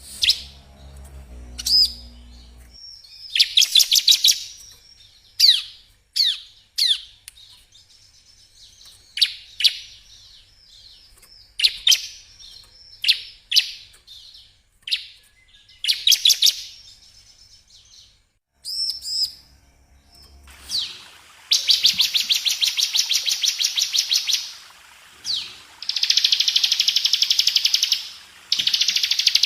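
Ciblek (prinia) song: sharp, high chirps that sweep downward, given singly and in short runs, then two long, fast rattling trills of about three seconds each near the end.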